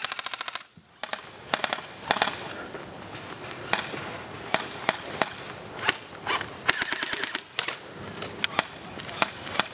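Airsoft guns firing: a rapid burst of snapping shots right at the start, another burst about seven seconds in, and scattered single shots between.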